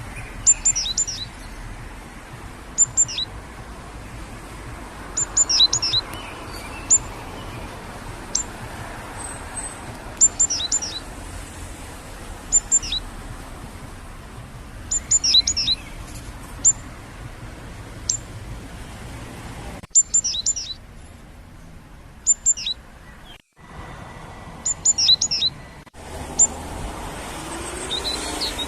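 Small birds chirping: clusters of two to four short, sharp, high chirps falling in pitch, repeated every second or two over a steady faint background hum.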